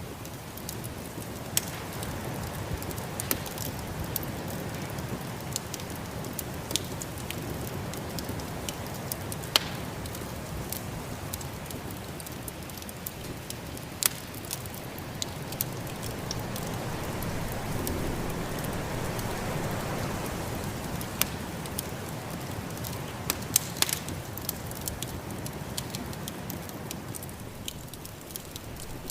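Wood fire crackling, with irregular sharp pops over the steady rush of snowstorm wind, which swells for a few seconds just past the middle.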